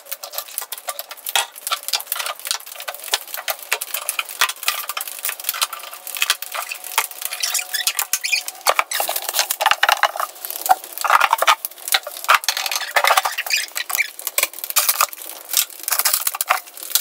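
Rapid, continuous clatter of containers, jars and dishes knocking together as food is taken out of a refrigerator, thin-sounding with no low end.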